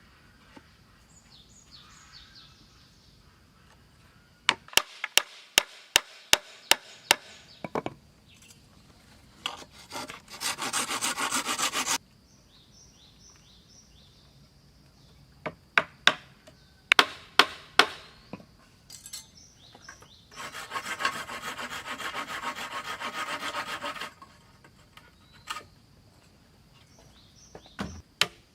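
Wood being worked with hand tools: quick runs of sharp knocks on wood, and twice a long, even rasp of sawing through wood that stops abruptly.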